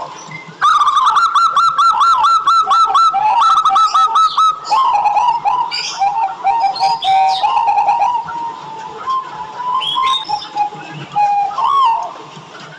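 Zebra dove (local perkutut) singing: a fast run of short, arched cooing notes, about five a second, then a looser stretch of lower, uneven notes.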